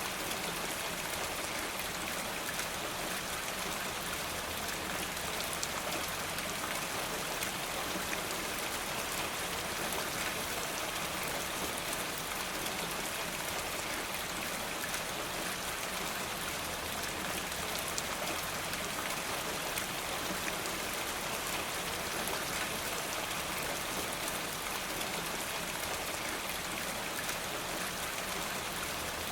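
Steady, even rain: a continuous hiss of falling drops, with faint scattered ticks.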